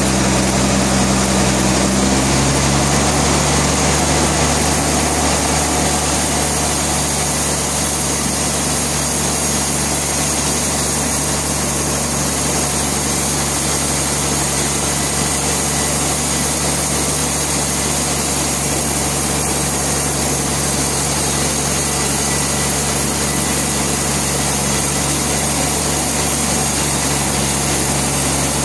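Sawmill machinery running with a steady engine hum. Its tone shifts slightly about two seconds in, then holds steady.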